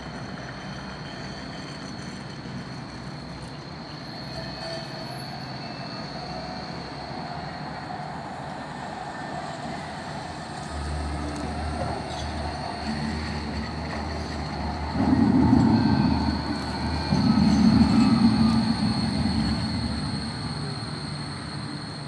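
Karlsruhe tram wheels squealing on the rails: a steady high-pitched squeal, with a louder low rumble swelling about halfway through and peaking near the end as the tram passes.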